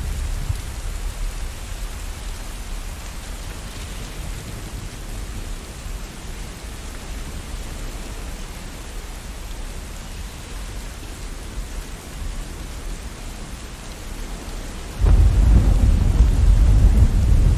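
Steady rain falling during a thunderstorm. A low rumble of thunder dies away in the first second or so, and a loud low rumble of thunder breaks in suddenly about fifteen seconds in and carries on.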